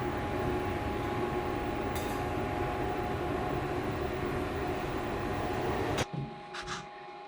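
Semi-automatic CO2/MAG welding arc crackling steadily while a bead is run, cutting off abruptly about six seconds in as the trigger is released, followed by a couple of faint knocks.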